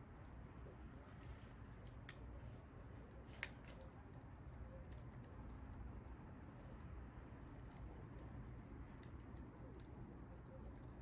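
Wood bonfire crackling faintly over a low steady rumble, with scattered small ticks and two sharp pops, about two and three and a half seconds in.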